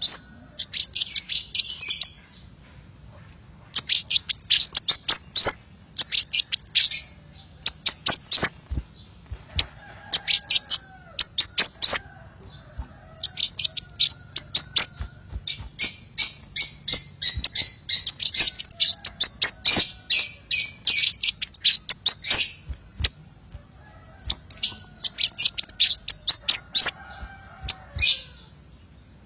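Sunbird ('kolibri') song played as a lure call: rapid bursts of high, thin chirps and trills in phrases of one to three seconds, with short pauses between them.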